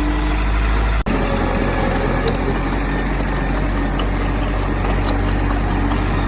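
Heavy earthmoving machine's diesel engine running steadily, a constant low rumble with a steady hum above it. The sound drops out for an instant about a second in.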